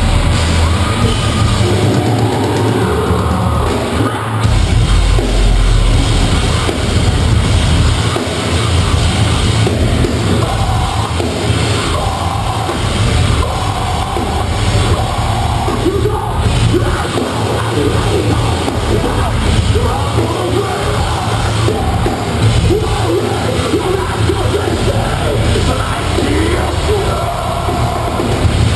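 Live metalcore band playing loud, with distorted guitars, heavy bass and drums, and screamed vocals.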